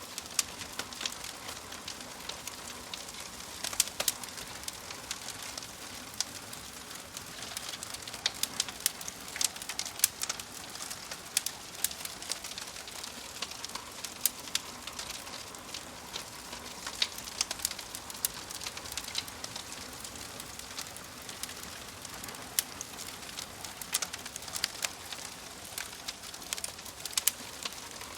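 Wood fire crackling: a steady hiss with irregular sharp pops and snaps throughout.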